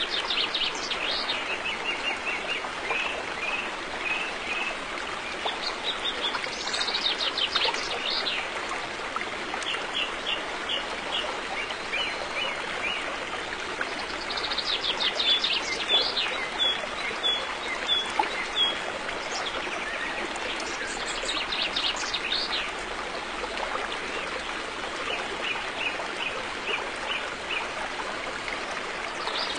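River water flowing steadily, with birdsong over it: several bouts of quick, high, repeated chirping notes every few seconds.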